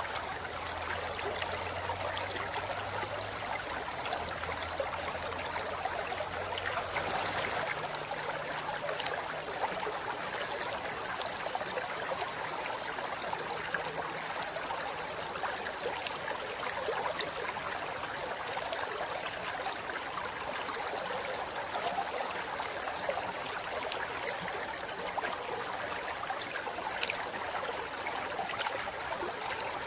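Forest river flowing over rocks: a steady, even rush of water.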